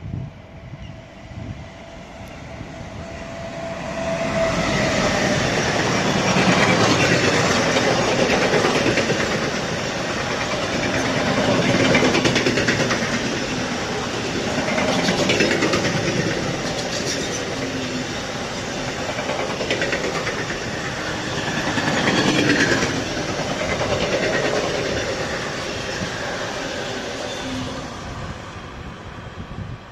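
Berlin S-Bahn electric train running past, its wheels clattering over the rail joints. The sound builds about four seconds in, swells and eases several times, and dies away near the end.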